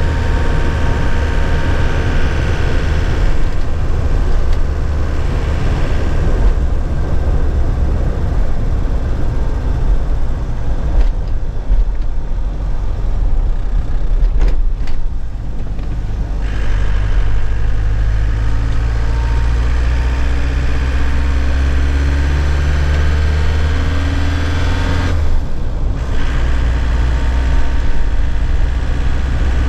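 2001 Nissan Cabstar light truck's engine heard from inside the cab while driving, a steady low drone. Over the second half the engine note climbs steadily as the truck accelerates, then drops away briefly near the end for a manual gear change before pulling again at a lower pitch.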